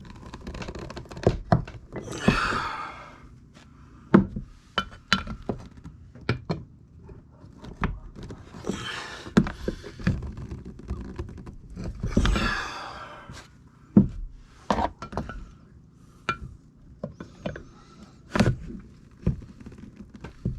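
Irregular clinks and knocks of a titanium hook tool levered against an oil seal lodged in an aluminum differential case, with a few longer scraping stretches. The seal is stubborn and has not yet come free.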